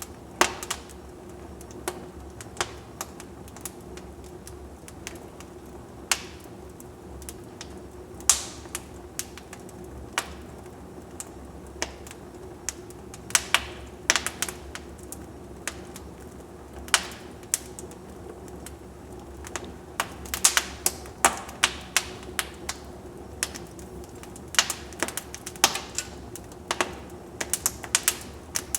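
Firewood burning in a fireplace, crackling with irregular sharp pops, some coming in quick runs, over a steady low background.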